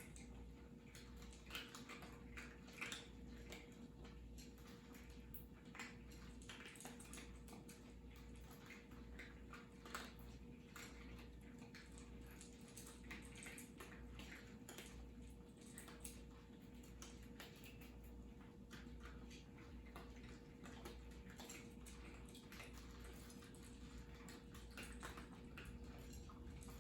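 Cats eating: faint, irregular small clicks and crunches of chewing, over a low steady hum.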